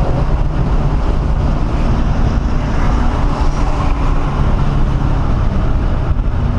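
1997 SVT Cobra Mustang's 4.6-litre DOHC V8 running hard at speed on a race track, heard from inside the cabin as a loud, steady engine note with road noise.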